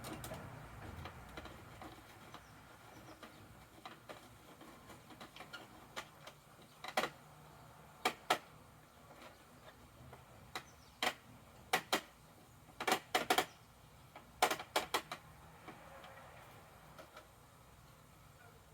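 Irregular sharp plastic clicks and clacks, some single and some in quick twos and threes, as a toy Bruder garbage truck's parts are worked by hand. A soft rustling noise fades out in the first second or so.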